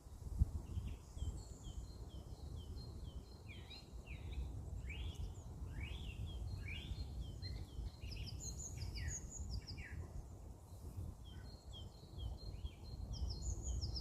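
Small songbirds chirping and twittering, many short quick notes overlapping, busiest in the middle, over a steady low rumbling background noise.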